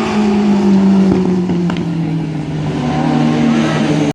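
Sportbike engine and racing exhaust running loud, its note falling slowly in pitch; the sound cuts off abruptly at the end.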